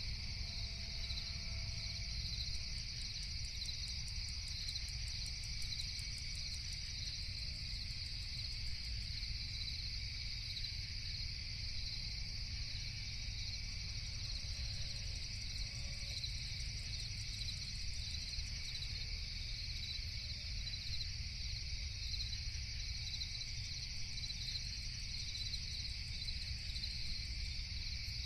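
Nighttime chorus of crickets, a steady unbroken shrill trill, over a low steady rumble.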